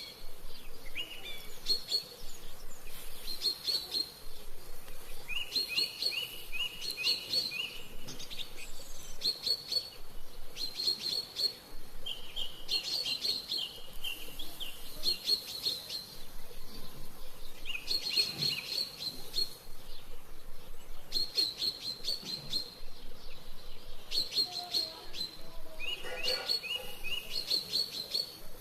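Songbird singing: short phrases of quick chirps that step up in pitch, repeated every second or two.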